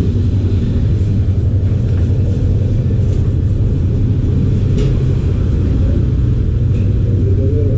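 Steady, loud low rumble that does not change.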